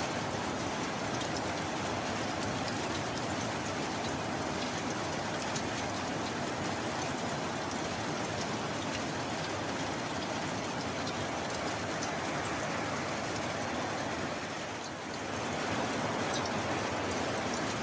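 Steady rain falling, an even hiss with scattered sharp drop ticks; it eases briefly about fifteen seconds in.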